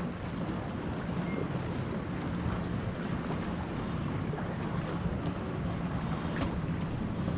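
Jet ski engine running at a steady pitch, with water rushing and wind buffeting the microphone.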